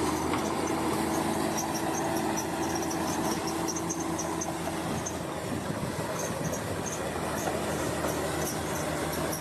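Bulldozer running steadily, its diesel engine drumming under a rapid run of high squeaks and clinks from its steel tracks.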